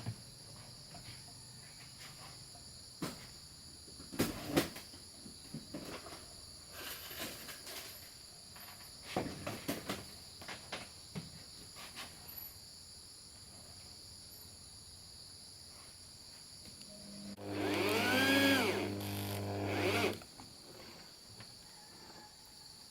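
Insects drone steadily, with scattered knocks and taps of hand work. Near the end a power tool motor runs for about two and a half seconds, its pitch rising and then falling.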